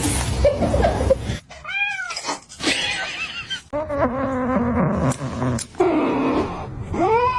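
Cat yowling and meowing, a series of drawn-out, wavering calls that rise and fall in pitch.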